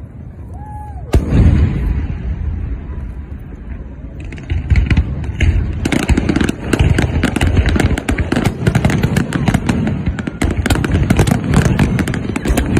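Aerial fireworks going off: a whistle, then a loud bang about a second in, followed from about six seconds by a dense barrage of rapid bangs and crackles.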